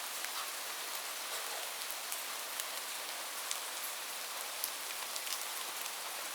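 Steady rainfall: an even hiss with scattered sharp drops striking a surface, several a second, with no thunder.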